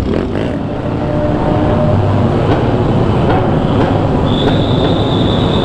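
Motorcycle riding at steady speed, with engine hum under loud road and wind noise. A thin high whine joins about four seconds in.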